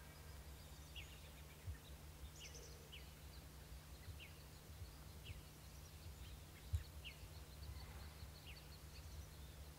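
Quiet pine-forest ambience: faint short high chirps falling in pitch, about one a second, a small bird's, over a low rumble and hum. There is one soft low thump about two-thirds of the way in.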